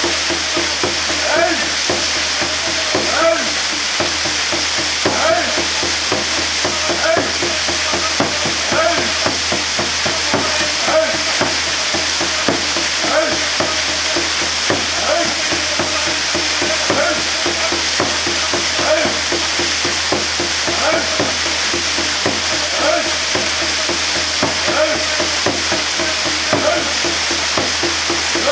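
Waterfall water pouring and splashing in a steady rush, with short repeated sounds about once a second over it.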